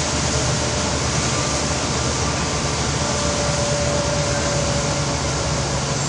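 Steady running noise of a bus: a low engine drone under an even hiss, with a faint steady whine in the second half.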